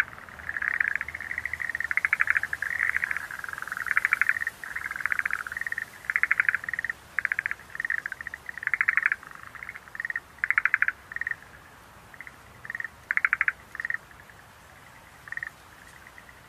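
Schlegel's green tree frogs calling: repeated short bursts of rapid trilled pulses, one bout after another, thinning out to a few scattered calls in the last few seconds.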